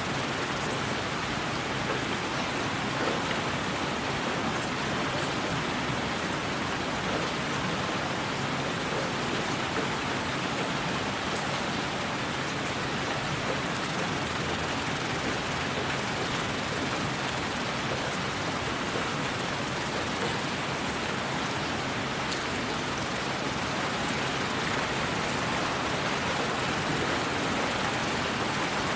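Steady white noise: an even, unchanging hiss like heavy rain, with faint scattered ticks.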